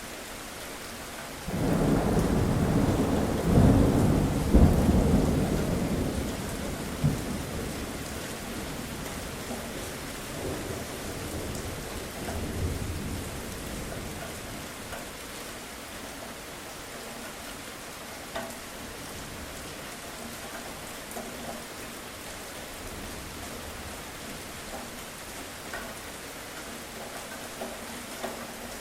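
Steady rain with a clap of thunder about a second and a half in that rumbles on and slowly fades over the next ten seconds or so. After that only the rain remains, with a few sharper drops ticking.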